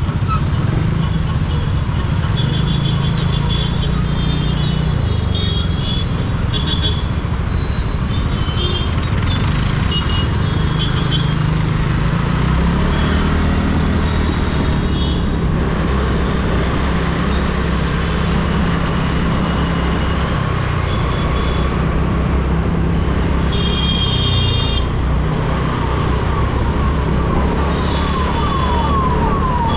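TVS Ntorq 125 scooter engine and road noise while riding through city traffic, with vehicle horns honking several times and a louder horn blast about three-quarters through. A siren starts up near the end, sweeping rapidly in pitch.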